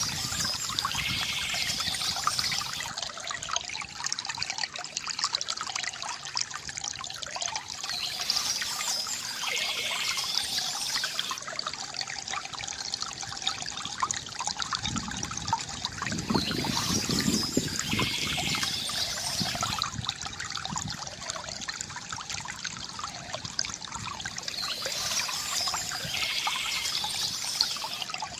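Water trickling and splashing steadily from a bamboo fountain spout into its basin, with a fuller, lower gurgle about two-thirds of the way through.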